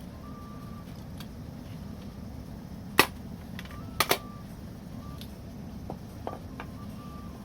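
Wood fire crackling: burning wood pops and snaps, with a loud crack about three seconds in and two more in quick succession a second later, among smaller ticks.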